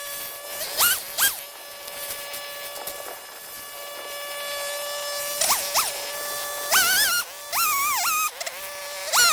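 Two-stroke chainsaw running at high revs through a felling cut, holding a steady pitch, with a few quick throttle blips. For the last couple of seconds the engine pitch rises and falls repeatedly as the saw bogs and recovers in the cut.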